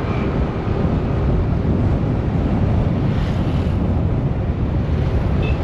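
Wind rushing over the microphone of a rider on a moving motorbike: a steady, loud rumble with the bike running underneath it.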